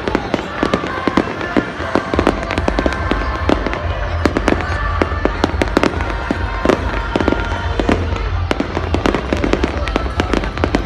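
Fireworks going off in a dense, continuous barrage of sharp bangs and crackles, with a deep low rumble setting in about two seconds in.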